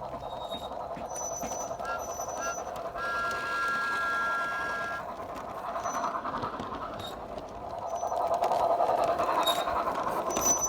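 Steady steam-engine chuffing from a model Thomas the Tank Engine's DCC sound decoder, played through its small on-board speaker, growing louder near the end. About three seconds in, the whistle sounds steadily for about two seconds, just after two very short toots.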